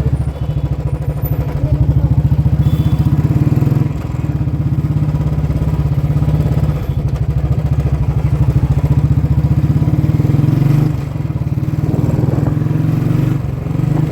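Royal Enfield Bullet 350's single-cylinder engine running under way through a loud modified exhaust, its rapid even firing pulses steady. The sound briefly drops off about four seconds in and twice near the end.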